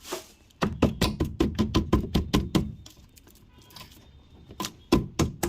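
A quick run of sharp knocks and clicks, about five a second for some two seconds, then a few more knocks near the end.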